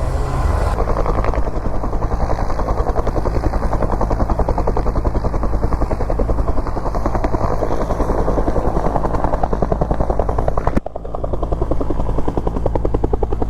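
Rescue helicopter running close by, its rotor chopping in a fast, steady beat, with a sudden brief dip about eleven seconds in.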